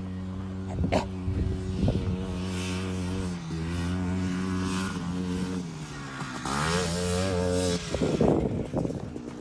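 Quad bike (four-wheeler) engine running at a steady pitch, with the throttle eased off and opened again a few times; the biggest dip and climb in revs comes about two-thirds of the way in. A few short knocks sound early on.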